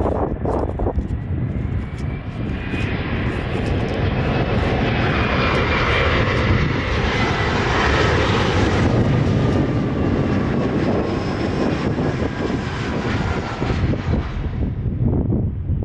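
Airplane engines passing by: a roar that builds, peaks midway and fades, with whining tones that slide down in pitch as it goes.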